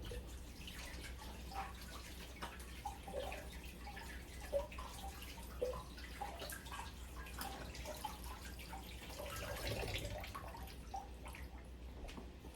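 Cassava balls deep-frying in hot oil: a steady sizzle with many small irregular pops and bubbling, over a low steady hum.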